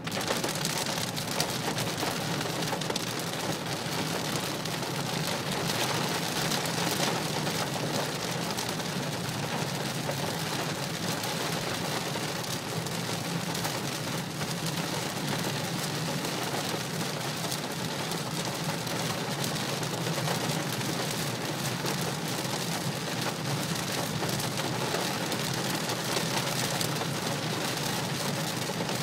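Heavy rain pelting the roof and windshield of a 2015 Nissan Murano in a dense, steady patter, heard from inside the cabin over steady tyre noise on the wet road.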